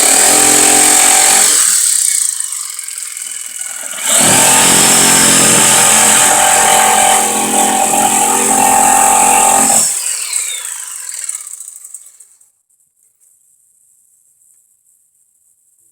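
Electric power saw cutting lumber in two runs: a short one, then a longer one of about six seconds. Each time the motor winds down with a falling whine after it is released.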